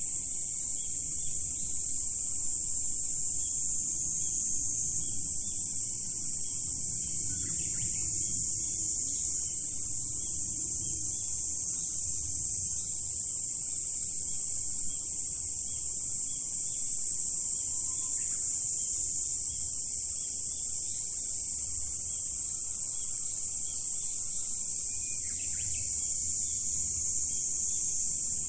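Steady, high-pitched chorus of many insects singing without a break, with a few faint brief chirps about 8, 18 and 25 seconds in.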